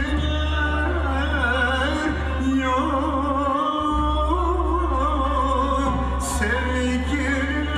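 A man singing a Turkish song in a melismatic, wavering line, with instrumental accompaniment over a steady low bass.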